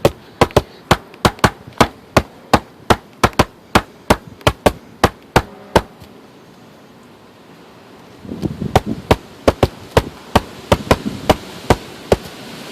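Hand knocking on the cardboard walls of a box fort: quick, sharp knocks about two or three a second. They stop for about two seconds a little past the middle, then start again over a low rumble of wind.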